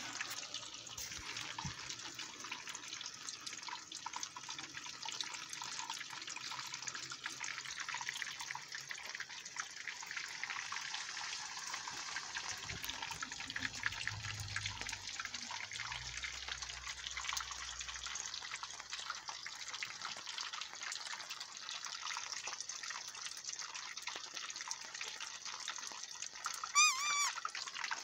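Steady rain pattering on a tarp, with many small drips. Near the end a brief, loud, high warbling chirp cuts through.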